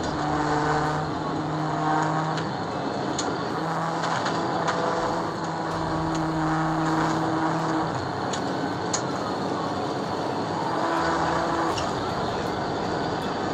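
Vehicle noise from a high-speed police pursuit: a steady rush of road and engine noise, with held tones that come and go every second or few.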